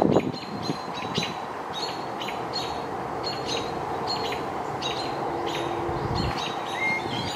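A bird calling a short, high note over and over, about twice a second, over a steady background hiss.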